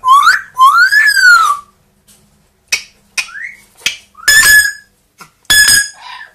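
Pet parrot whistling. It gives a short rising whistle, then a longer whistle that rises and falls, followed by a few short chirps and two harsher, louder calls in the second half.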